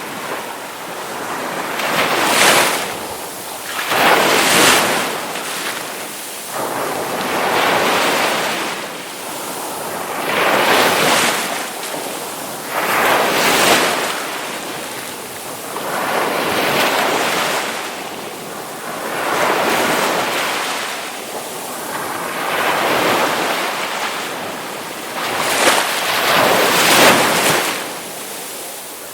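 Ocean waves breaking on a shore in repeated surges, each swelling and falling away every two to three seconds, over a steady wash of surf.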